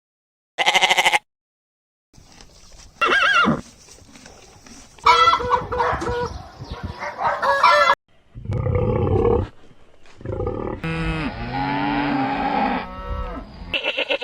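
A string of farm-animal calls cut one after another, with short silent gaps between the clips: about six separate calls, the longest near the end.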